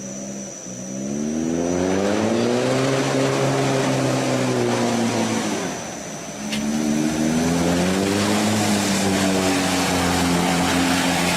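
A vehicle engine revving up under acceleration and holding high revs. It eases off for a moment about six seconds in, then picks up again.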